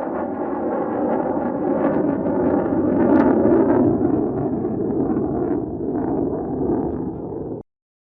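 Lockheed F-35A fighter's jet engine running loud and steady, swelling briefly about three seconds in, then cutting off abruptly near the end.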